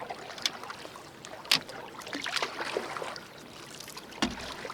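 Water splashing and trickling as a canoe is paddled, with scattered small clicks and two sharper knocks, one about a second and a half in and one near the end.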